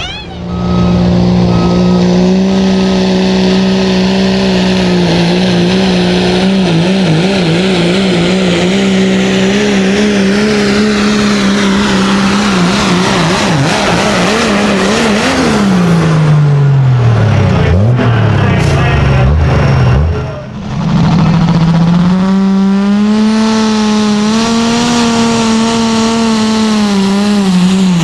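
A heavy engine running hard with a steady, wavering note. Partway through its pitch falls steeply to a low growl. After a brief break it comes back on a steady, slightly rising note.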